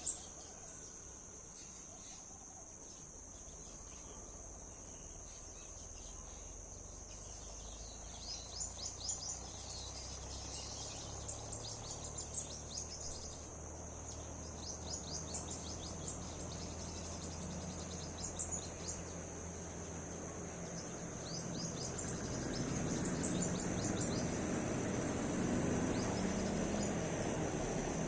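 Garden ambience: a steady high insect drone, likely crickets, with repeated clusters of short, high bird chirps. A low, noisy rumble grows louder over the last few seconds.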